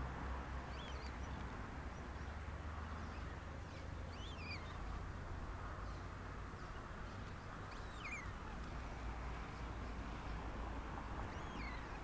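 Steady outdoor background hiss with a low rumble, and a faint high bird call that falls in pitch, heard four times about every three to four seconds.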